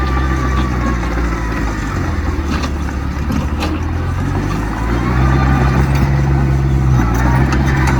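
Heavy diesel engine of earth-moving machinery running, with a couple of sharp knocks near the middle. About five seconds in it rises in pitch and gets louder as the machine comes under load.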